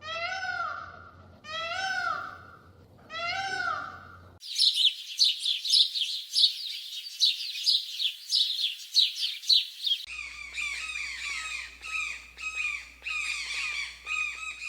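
Three short calls that rise and fall in pitch, about one every second and a half, then a dense flurry of rapid high bird chirps. About ten seconds in this switches abruptly to a different, lower-pitched chorus of chirping birds.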